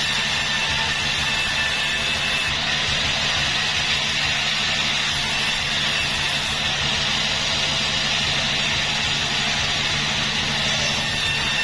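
Sawmill machinery running steadily: a constant motor rumble with a high, even hiss, without a break or change in pitch.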